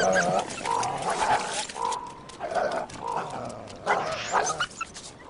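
Coyotes yelping and whining in a string of short, pitched calls that overlap one another.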